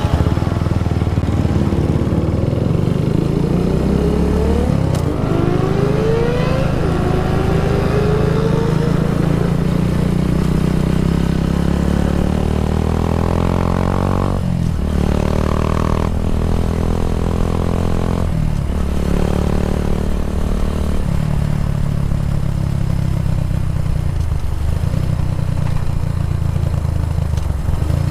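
Kawasaki W175's single-cylinder engine running through an aftermarket racing exhaust, its pitch rising in the first third, with two brief dips in the sound about halfway through.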